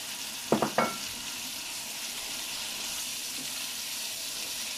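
Raw chicken pieces frying in hot oil with onion in a kadai, a steady sizzle; about half a second in, three quick sharp knocks.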